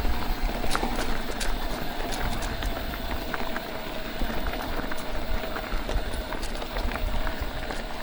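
Mountain bike riding over a rough trail: tyres crunching on loose ground, with many short clicks and rattles from the chain and frame and a low rumble of wind on the microphone.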